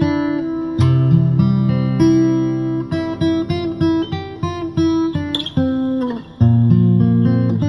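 Instrumental music led by acoustic guitar, plucked and strummed notes over a changing bass line, with a brief drop near the end before the guitar comes back in.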